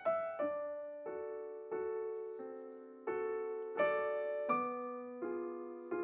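Background solo piano music: single struck notes and chords, each fading slowly before the next.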